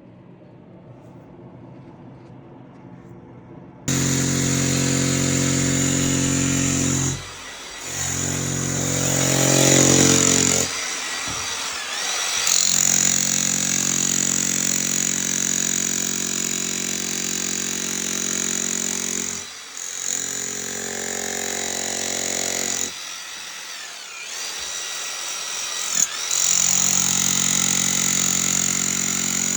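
Heavy power tool running on a concrete floor, breaking up the concrete. It starts about four seconds in and runs in long spells, stopping briefly several times before starting again.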